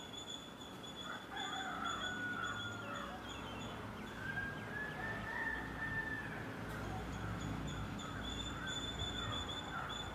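Peafowl calling faintly, with scattered short calls and one longer drawn-out call near the middle. A steady high-pitched whine runs underneath.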